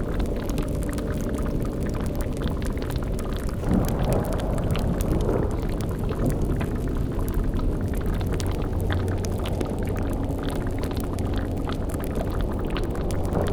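Layered spooky ambience mix: a steady low rumbling drone under continual bubbling and crackling from a boiling cauldron and fire. About four seconds in, a louder swell with faint gliding tones rises over it and then eases back.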